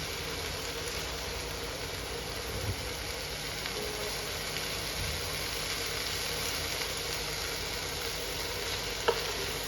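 Vegetables frying in a pan on medium heat, a steady sizzle with no break, with a light click about nine seconds in.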